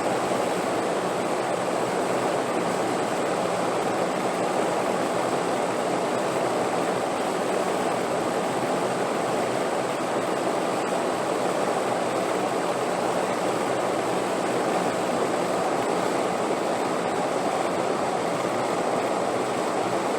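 Wind blowing steadily, an even noise without gusts or breaks.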